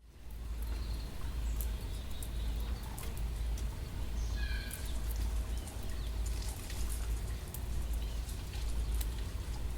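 Bird calls: one call with several stacked tones about four and a half seconds in, among scattered short high chirps and clicks, over a steady low rumble.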